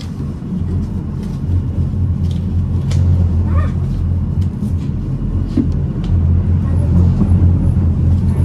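Tram running along the line: a steady low rumble with a few light clicks, getting a little louder in the second half.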